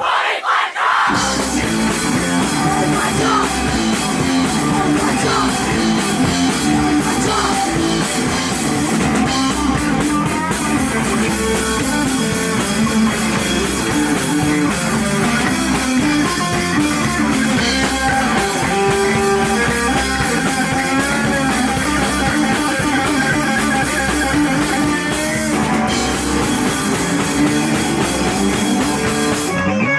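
A live rock band playing loud, with guitars and a drum kit. The bass and drums drop out for a moment at the start, and the full band comes back in about a second in, then plays on steadily.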